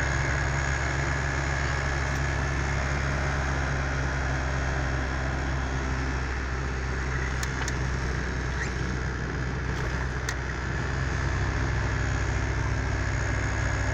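1985 Dodge Aries driving along, heard from inside the car: a steady low engine drone with road noise. The low hum shifts slightly about eleven seconds in.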